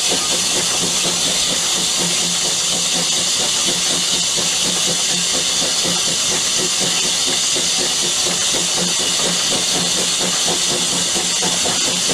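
Steam locomotive letting off steam with a loud, steady hiss, over a low rapid flutter.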